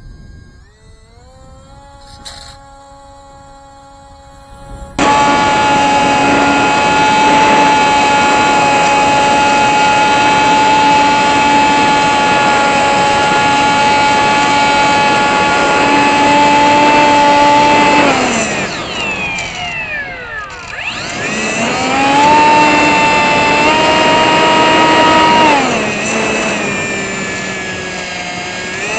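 Small brushless electric motor (RCX NK1103, 10000KV) spinning a 3-inch propeller on a sub-100 g RC plane, heard from a camera on the plane. A faint whine rises at first, then about five seconds in it jumps to a loud steady high whine with rushing air. About two-thirds of the way through, the whine slides down and fades as the throttle is cut, then climbs back, holds, and drops to a lower steady pitch near the end.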